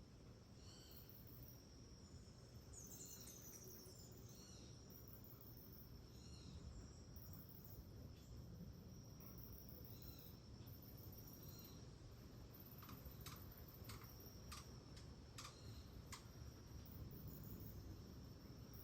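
Faint tropical rainforest ambience: insects keep up a steady high trill and a pulsing, very high buzz. Birds give repeated short chirps over the first few seconds, and a run of sharp ticks comes about two-thirds of the way through.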